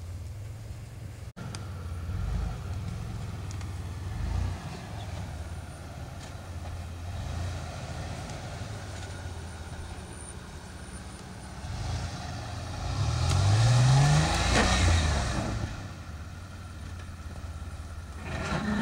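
GMC Jimmy's engine running at low revs while driving a snowy trail, then revving up with a rising pitch about thirteen seconds in, together with a loud rushing noise that dies down after a couple of seconds.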